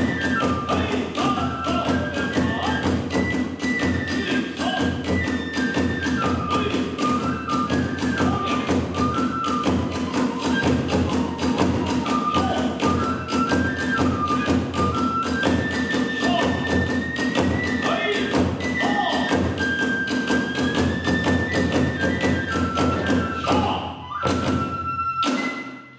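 Kagura hayashi: a high bamboo flute melody over fast, driving drum beats and hand cymbals. It ends with a couple of final strokes near the end.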